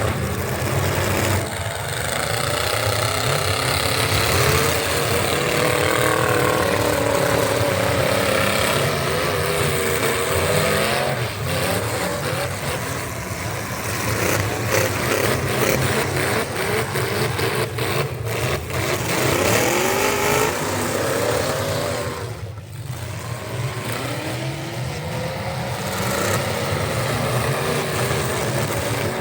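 A pulling truck's engine running hard at high revs, its pitch wavering up and down the whole time, with a brief drop in level about three-quarters of the way through.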